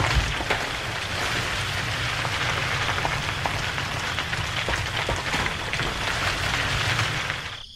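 Rockfall sound effect: a steady rushing noise with a low rumble and a few scattered clicks, as rocks tumble down onto a dirt track. It cuts off just before the end.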